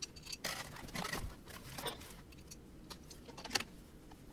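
Small parts and hardware of an Ender 3 Pro 3D printer kit being handled during assembly: scattered clicks and light rattles, with the sharpest click about three and a half seconds in.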